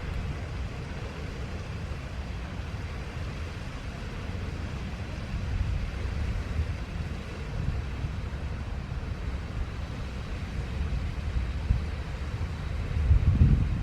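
Low, uneven outdoor rumble with no bird calls, swelling louder near the end.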